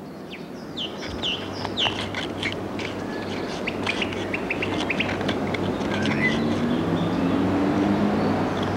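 Small birds chirping in short, quick notes over a steady background rush that slowly grows louder. A faint low drone rising in pitch comes in near the end.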